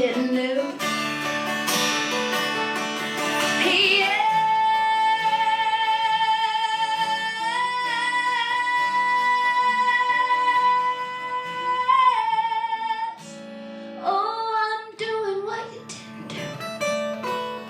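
Female singer with acoustic guitar accompaniment, holding one long sung note for about eight seconds, then moving into shorter phrases over the guitar.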